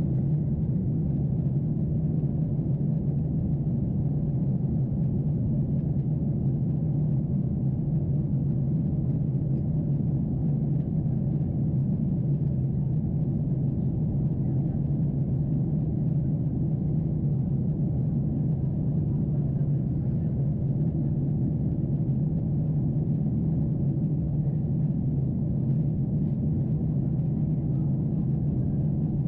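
Steady low drone of cabin noise inside a Boeing 747-8 in flight, the four GEnx engines' hum mixed with airflow over the fuselage.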